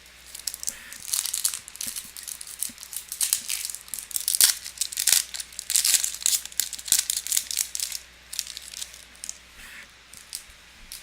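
Crinkly foil wrapper of a trading-card pack being torn open and crumpled by hand, a dense run of irregular crackling that thins out near the end.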